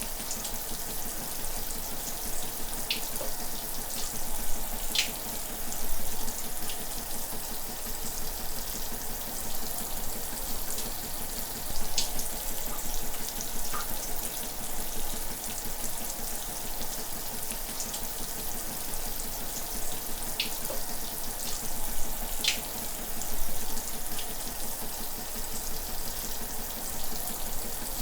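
Shower running: a steady spray of water hissing, with a few sharper splashes or drip ticks here and there.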